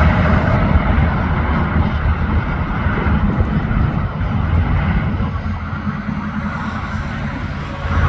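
Semi truck passing on an interstate highway, its engine rumble and tyre noise slowly fading as it pulls away.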